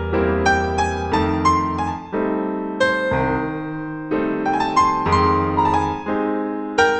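Piano music: a melody of single notes over sustained bass notes.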